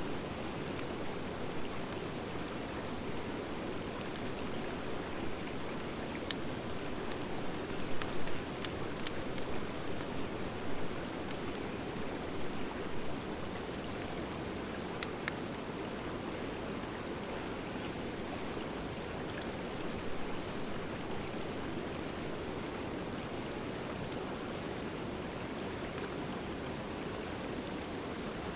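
Driftwood and dry hardwood logs burning in an open wood fire: a steady low rushing hiss, broken by scattered sharp crackling pops, about one every few seconds.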